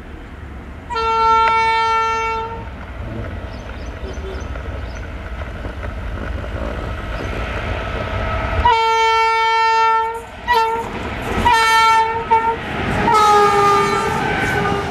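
Indian diesel locomotive horn: one long blast, then after a pause another long blast, two short toots and a last long blast that sags slightly in pitch. A steady low rumble of the running train lies under the first part.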